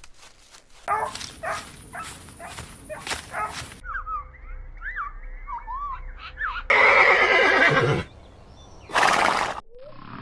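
Horse whinnying loudly about seven seconds in, followed a second later by another short loud call. Before it comes a run of sharp knocks about twice a second, then a series of short chirps that rise and fall in pitch.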